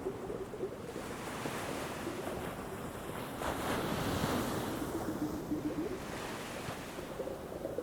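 Ocean surf washing onto a beach as a steady rush, swelling to a louder wave break about three and a half seconds in, with some wind.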